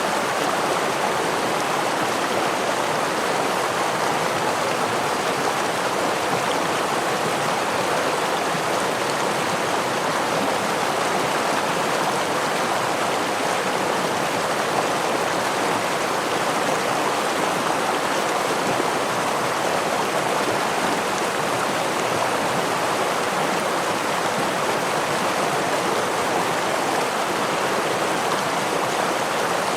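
Stream water running steadily, a constant even rush with no breaks or changes.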